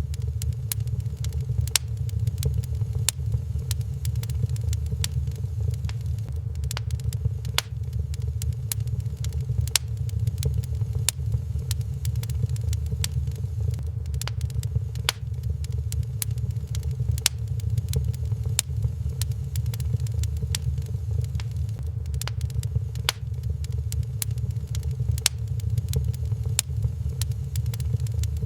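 Wood fire crackling with frequent, irregular sharp pops and snaps over a steady low rumble.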